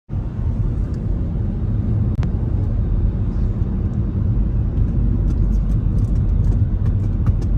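Car driving, its road and engine noise a steady low rumble. A few faint ticks are heard near the end.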